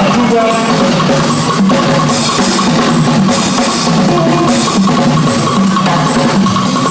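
Live band music with the drum kit to the fore over a bass line, playing a steady, loud groove.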